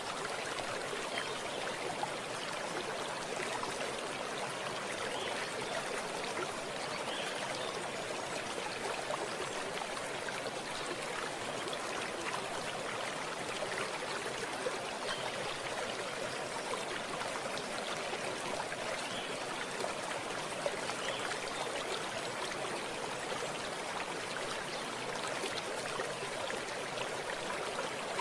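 Running water: a stream flowing and trickling steadily, with faint small splashes.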